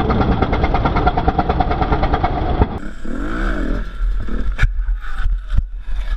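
Motorcycle engine running with rapid, even firing pulses. After a cut, a shorter stretch follows with a quickly wavering rise and fall in pitch, then several sharp knocks.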